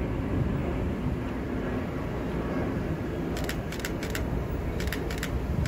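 Commuter train pulling away down the track, a steady low rumble. From about halfway in, short high clicks repeat in quick pairs.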